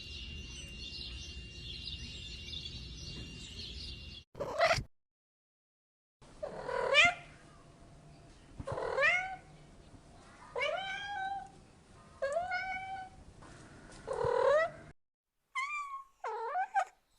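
A cat meowing five times, each a long drawn-out meow, about two seconds apart. Before them comes about four seconds of steady hissy background with a thin high tone, ending in one short cry. Near the end several short, quick animal cries begin.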